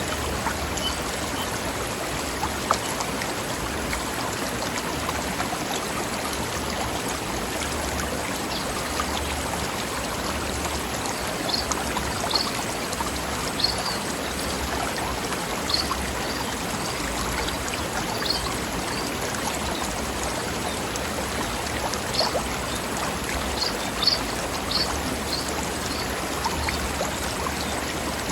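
Mountain stream bubbling over rocks in a steady, even rush. Short high chirps come now and then from about halfway through.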